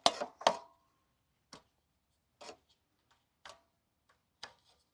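Light clicks and knocks of small engine parts being handled and fitted by hand, about one a second, the loudest pair near the start.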